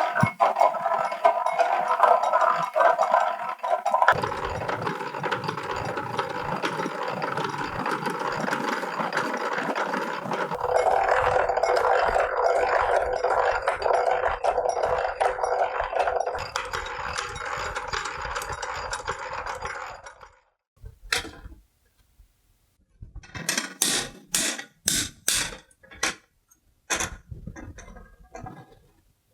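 Drill bit boring out steel rivets on a hand-powered wall drill, a continuous grinding scrape of metal being cut for about twenty seconds. It is followed by a run of sharp knocks and clinks.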